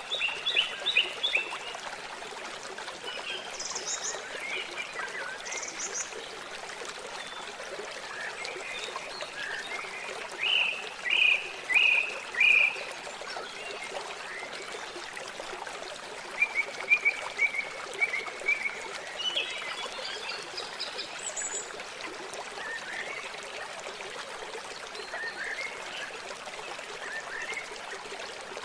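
Steady trickling of running water, with birds calling over it in short bursts: four loud notes a little before the middle, and a quick run of notes shortly after.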